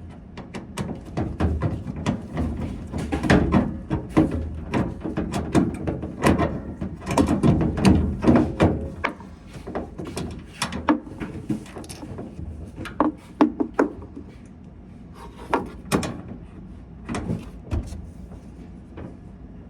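Irregular clicks, knocks and light thuds of hands working on a washing machine, handling its parts and panels while fitting a replacement noise filter board. The handling is busiest for the first nine seconds or so, then thins to scattered knocks.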